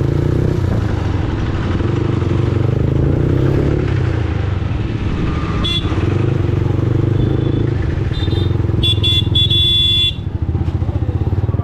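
Yamaha MT-15's single-cylinder engine running steadily under way. Short high horn beeps sound about six and seven seconds in, and a longer, louder horn sounds about nine to ten seconds in.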